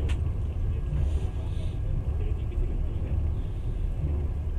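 Passenger train running at speed: a steady low rumble of the wheels and carriage, with one brief click just at the start.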